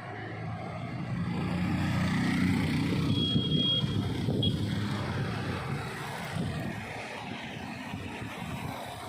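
A motor vehicle's engine passing by, swelling over the first few seconds and then fading, with a brief high tone about three seconds in.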